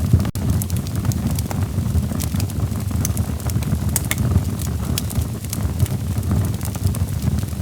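Wood fire burning in a fireplace: a steady low rumble of flames with sharp crackles and pops from the logs, scattered irregularly throughout.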